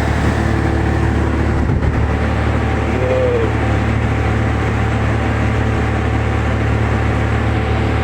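Steady low rumble of a moving vehicle, with one brief voice-like sound about three seconds in.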